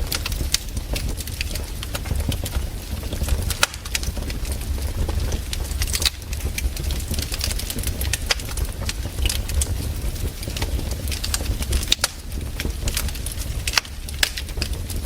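Campfire wood crackling, with frequent sharp snaps and pops over a steady low rumble.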